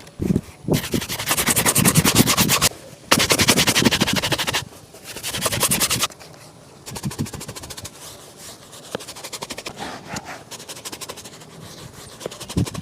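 A shoe being buffed with a shoe-shine brush: three loud spells of brisk, rapid strokes in the first half, then quieter rubbing for the rest.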